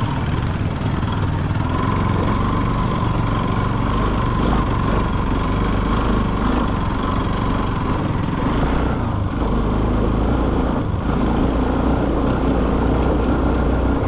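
Motorcycle engine running steadily while riding, with wind noise over it.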